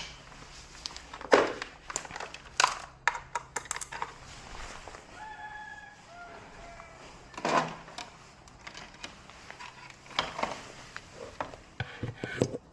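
Irregular clicks and knocks of hands and tools handling parts during TV repair work, with a brief high call midway through.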